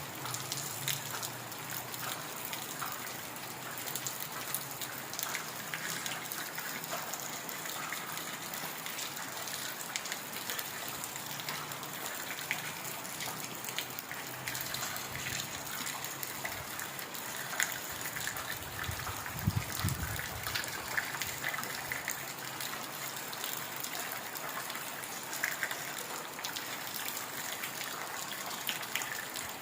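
Heavy rain falling steadily in a forest, a dense hiss with the patter of individual drops. A brief low rumble comes about twenty seconds in.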